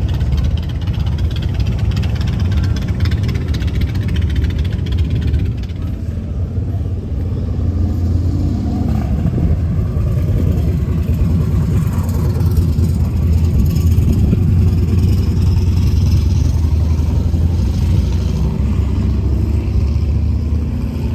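Suzuki GSX-8R motorcycle's 776 cc parallel-twin engine running, its pitch rising and falling about halfway through.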